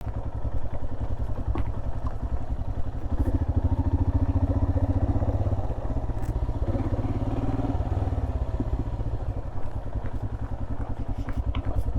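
Royal Enfield Himalayan's 411 cc single-cylinder engine running steadily under way, its exhaust beat an even rapid pulse that swells twice, with a few light clicks and rattles.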